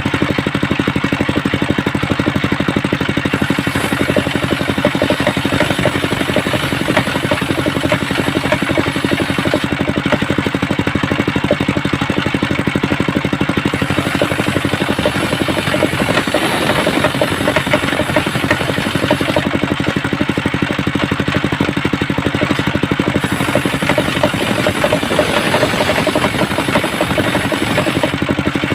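Homemade circular saw rig running steadily while it rips waru wood, with a higher hiss coming and going in three long stretches.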